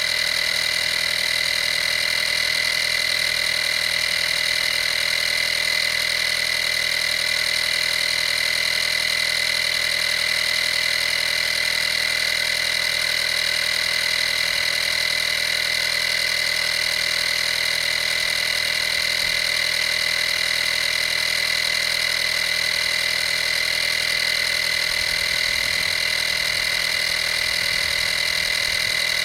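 Vaper 12-volt air compressor, model 55203, running steadily with a constant high-pitched whine.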